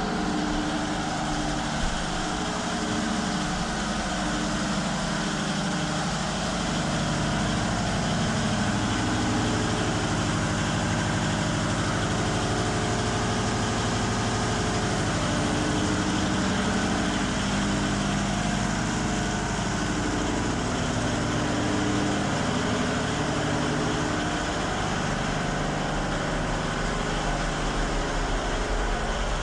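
Ship's engine room machinery running steadily: a continuous loud mechanical din of engines with low steady hum tones.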